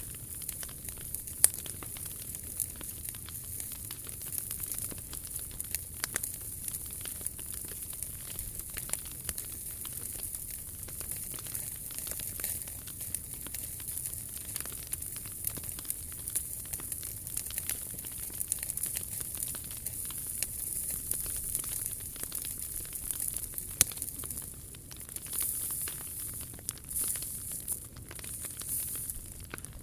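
Wood fire crackling steadily with dense small snaps, and two sharper pops: one near the start and one about three-quarters of the way through.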